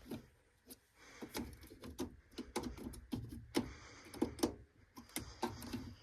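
Handling noises: a string of light, irregular clicks and knocks, as of tools and small parts being picked up and set down.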